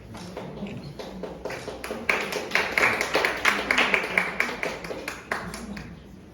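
Small audience applauding: scattered claps at first, swelling into steady clapping about two seconds in and stopping about five seconds in.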